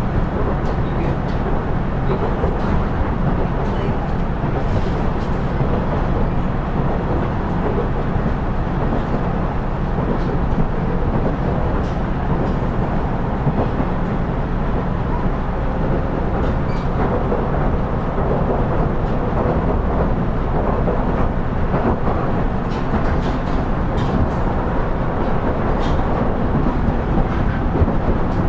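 KiHa 110-series diesel railcar running along the line, heard from inside the car: a steady diesel engine drone under wheel-on-rail rumble, with scattered faint clicks.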